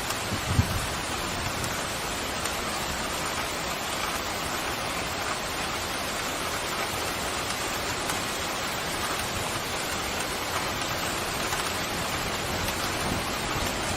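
Steady, heavy rain falling, an even hiss of drops, with one short low thump about half a second in.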